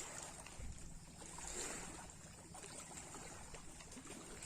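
Sea waves washing, a faint steady rushing that swells a little about a second and a half in.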